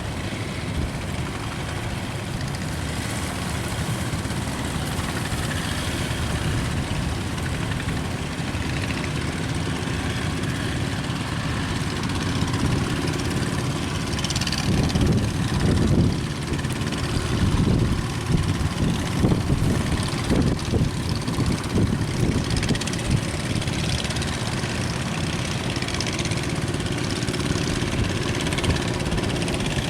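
A boat's engine running steadily at sea, with rough gusts of wind and water noise swelling in the middle.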